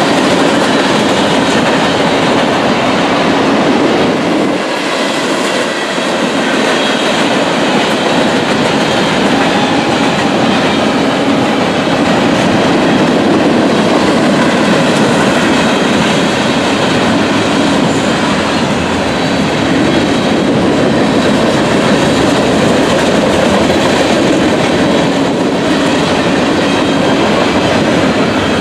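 Freight train cars rolling past at a grade crossing, a steady rumble and clatter of wheels over the rails.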